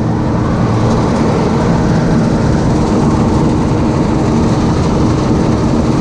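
Farm machine's diesel engine running at a steady speed, a constant loud drone.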